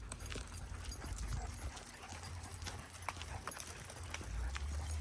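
Footfalls and irregular light clicks of a pack of dogs being walked on leash, over a low rumble that grows louder near the end.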